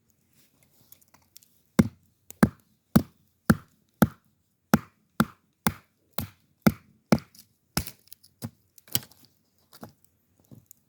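Steady chopping: a run of about fifteen sharp strikes, roughly two a second, that starts about two seconds in and trails off near the end.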